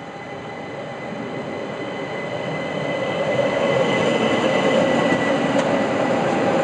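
Train approaching and running through a station, growing louder over the first four seconds and then holding steady. A thin, steady high whine sits over the rumble of the wheels, and there is a sharp click near the end.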